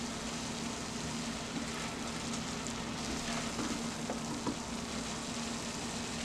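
Shredded salt codfish and vegetables sizzling steadily as they fry in oil in a stainless steel pot, stirred with a wooden spoon that gives a few faint scrapes and taps. A steady low hum runs underneath.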